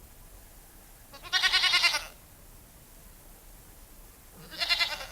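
Goat bleating twice, two short quavering bleats about three seconds apart.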